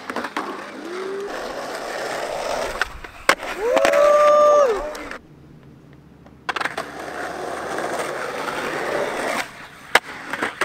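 Skateboard wheels rolling on street pavement, broken by several sharp clacks of the board popping and landing as tricks are tried. The rolling drops out for about a second midway.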